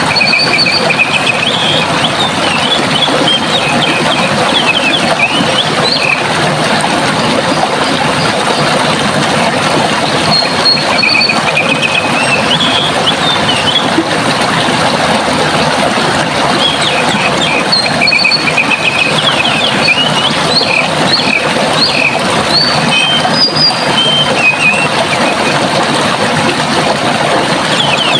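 Steady rush of running water, with songbirds chirping and trilling over it in several short bouts.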